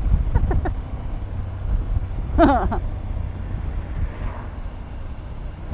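Motorcycle riding along: a steady low engine and road rumble with wind noise on the microphone. A short vocal exclamation comes about two and a half seconds in.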